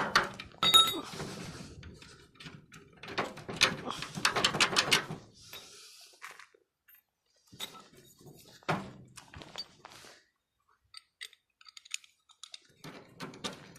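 Metal clinking and knocking from hand work on wheelbarrow parts: two runs of rapid clicks, then scattered ticks and a single heavier knock about nine seconds in.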